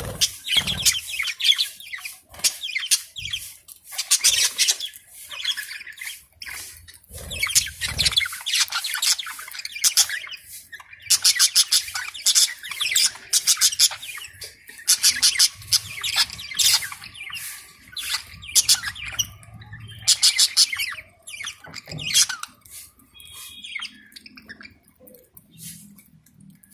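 Many lovebirds chattering together with rapid, shrill chirps and squawks in repeated bursts, thinning out near the end.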